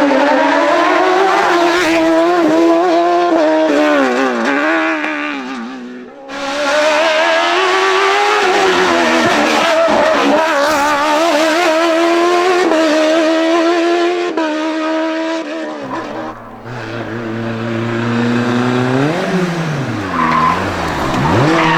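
Hill-climb race car engines revving hard, the pitch climbing and dropping again and again through gear changes and braking, with tyres squealing. The sound dips briefly about six seconds in, and from about sixteen seconds a lower steady hum sits under rising and falling engine notes.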